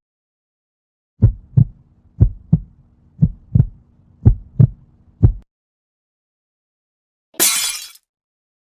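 Heartbeat sound effect: four pairs of low lub-dub thumps about a second apart and then one last thump, over a faint steady hum. Near the end comes a brief noisy crash.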